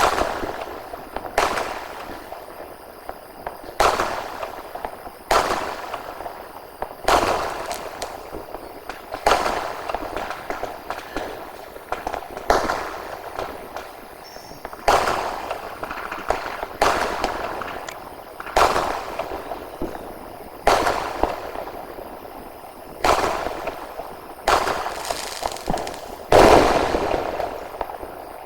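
Aerial firework sky shots going off one after another, a sharp bang every second or two, each followed by a fading echo.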